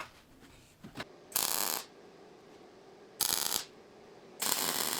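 Three short bursts of MIG welding, each about half a second of crackling arc: tack welds on steel. The first comes about a second and a half in, the next two close to three and four and a half seconds in, after a couple of light knocks of metal being handled.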